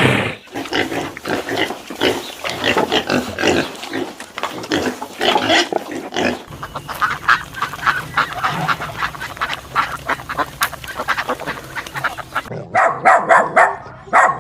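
Farm animals calling: many short calls come quickly and overlap, with an abrupt change to a different set of calls near the end.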